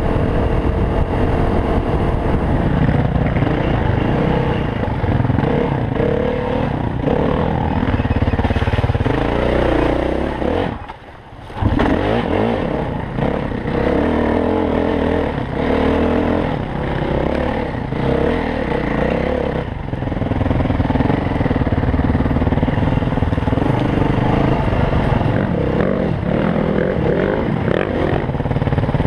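Dirt bike engine running under load on a trail ride, its pitch rising and falling with the throttle, with rattling and clatter from the rough ground. The sound drops out briefly about eleven seconds in, then picks up again.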